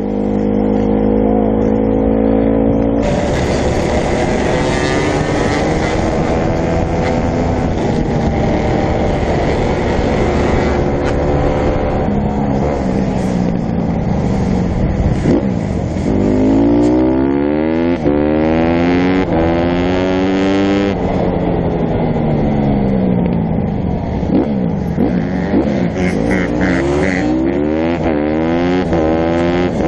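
Dirt bike engines revving up and falling back over and over as they ride, the pitch climbing and dropping every few seconds, with a steady rushing noise over them.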